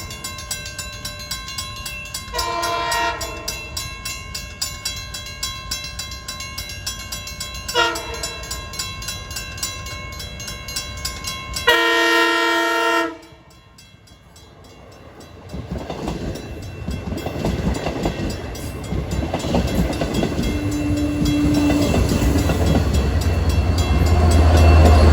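Diesel passenger locomotive's air horn sounding the grade-crossing signal (long, long, short, long, the first long blast ending just as it begins) over a crossing bell ringing steadily. About halfway through the sound drops out abruptly, then the approaching train's rumble builds and grows loud near the end.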